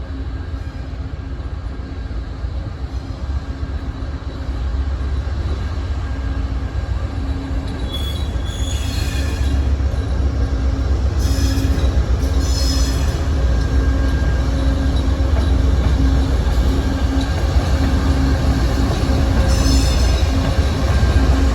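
Train rolling by with a steady low rumble that gets louder throughout, and high-pitched wheel squeal coming three times: a little before halfway, just after halfway, and near the end.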